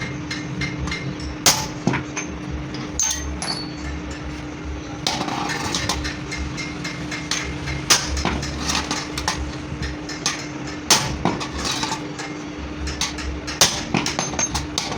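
A hammer striking metal in irregular blows: a few loud strikes among many lighter taps and clinks, over a steady low hum.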